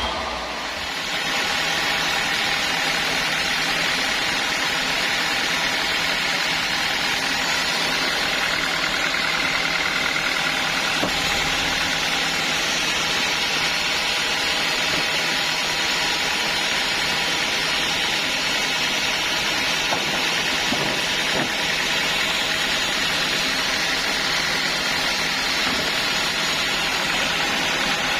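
Sawmill saw machinery running steadily, a loud even noise that stays the same throughout.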